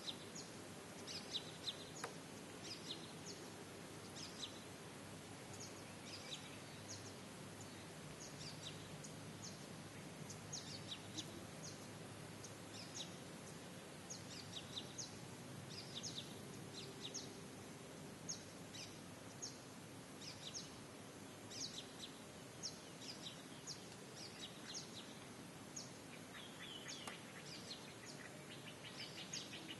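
Small birds chirping, short high chirps repeating every second or so over a faint steady hiss. Near the end the chirps come in a quicker, busier run.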